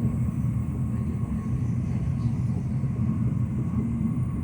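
Shinkansen train running at speed, heard inside the passenger car as a steady low rumble with a faint steady whine.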